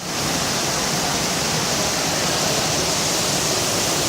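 Rain falling steadily, a dense, even hiss that holds at the same level throughout.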